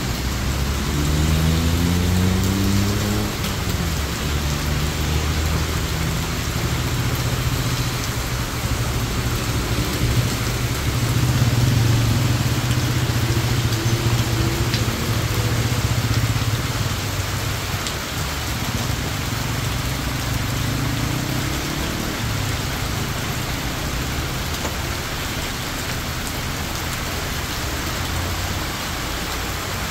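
Heavy rain pouring steadily onto a paved road, with cars and a light truck driving past through the water, their engines rising and fading as they go by. The loudest pass comes a little over ten seconds in.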